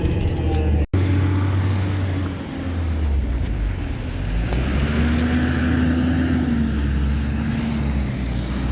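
KAvZ-4270 city bus under way: a steady low engine drone with road noise. The sound cuts out for an instant about a second in, and a tone rises a little and holds in the middle before fading.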